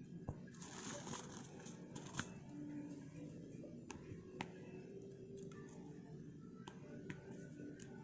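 Rustling and scattered small clicks of hands handling small craft items, with the loudest rustle about a second in.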